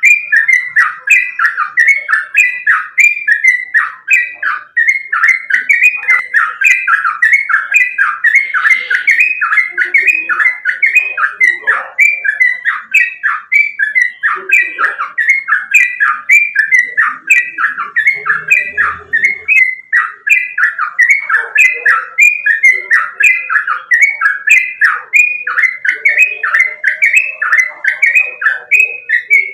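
Yellow-vented bulbul (trucukan) singing loudly and without pause: a fast, bubbly string of short notes repeated about two or three times a second.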